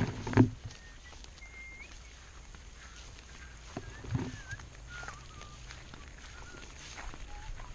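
Thin, wavering chirps of birds calling on and off. Two loud dull knocks come right at the start, and a shorter, lower sound about four seconds in.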